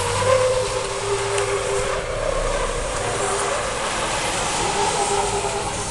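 Heavy trucks running, a steady low engine rumble inside a loud, even din of noise.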